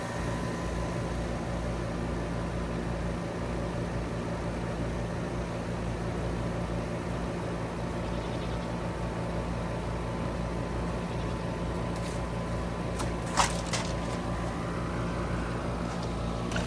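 Trane XR14 heat pump outdoor unit running steadily: a low hum from the compressor and condenser fan with a few steady tones over it. A single sharp click sounds about thirteen seconds in.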